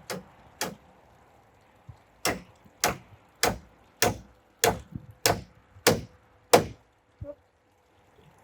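Hammer blows on wood: two strikes, then after a short pause a steady run of eight strikes a little under two a second, as when nailing roof rafters. A faint knock follows near the end.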